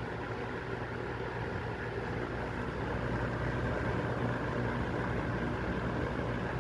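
1989 Toastmaster 20-inch box fan running on low speed: a steady rush of air over a low, even motor hum.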